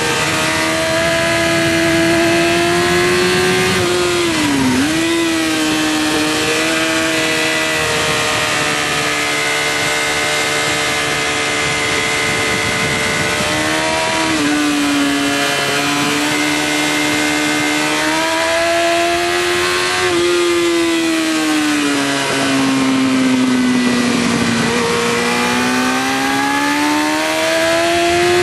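Yamaha R6 inline-four engine running at high revs under the rider, with a steady rush of wind. Its pitch dips sharply about four seconds in, steps down around fourteen seconds, sags slowly for a few seconds past twenty, then climbs as the bike accelerates near the end.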